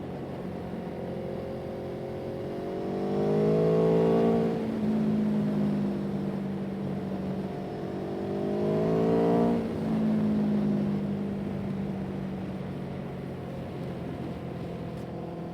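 Motor vehicle engine accelerating twice, its pitch climbing steadily and then dropping abruptly at a gear change, about four and nine and a half seconds in, before settling into a steady cruise.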